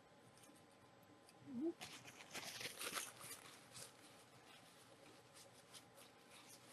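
Corn flakes crunching as cereal is eaten from a bowl with a spoon: a burst of crackly crunching about two seconds in, tailing off into a few faint clicks. A short hum of voice comes just before the crunching.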